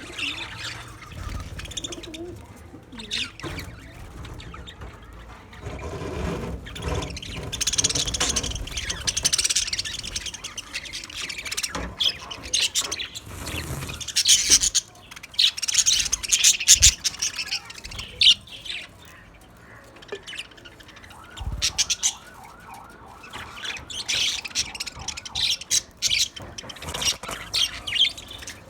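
Budgerigars chirping and chattering, many short high chirps and squawks overlapping in bouts, busiest about halfway through.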